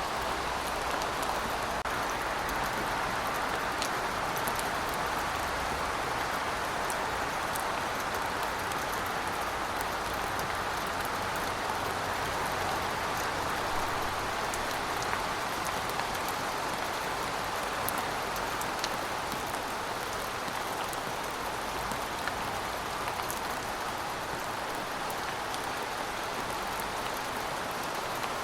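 Steady rainfall, an even hiss of rain with fine scattered drop ticks on a surface.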